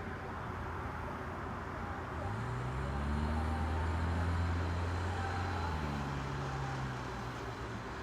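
A road vehicle drives past: its low engine hum swells in about two seconds in, is loudest around the middle, and drops in pitch and fades as it moves away.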